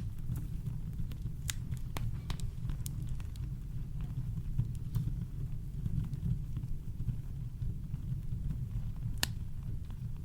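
Campfire crackling: scattered sharp pops and snaps over a steady deep brown-noise rumble, with one louder pop near the end.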